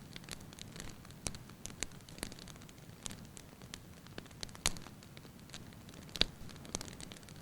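Wood fire burning in a fireplace: logs crackling with irregular sharp pops over a low steady hiss, two louder pops about four and a half and six seconds in.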